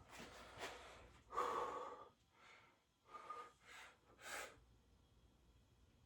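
A man breathing: a few short, faint breaths and exhales about a second apart.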